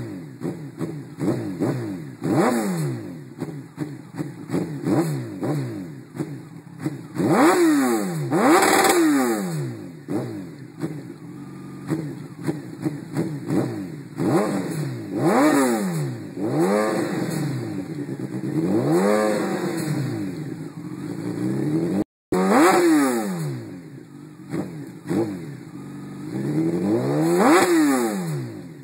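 2005 Kawasaki ZX-12R's inline-four engine, breathing through a full Muzzy exhaust with its silencer can shortened by ten inches, revved repeatedly from idle. Quick blips at first, then longer revs that climb and fall back.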